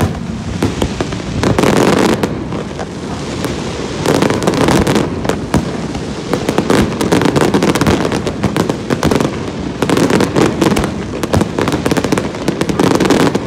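Fireworks display in full barrage: a dense run of overlapping bangs and sharp crackles over a continuous rumble, with no let-up.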